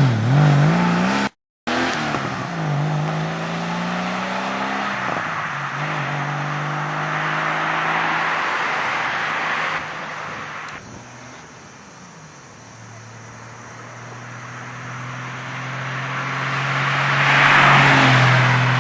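Porsche 993 Carrera's air-cooled flat-six through Fabspeed Maxflo mufflers, accelerating with the pitch rising, dropping at a gear change about five seconds in, then rising again. About halfway through it turns quieter and steady, then the exhaust sound swells to its loudest near the end.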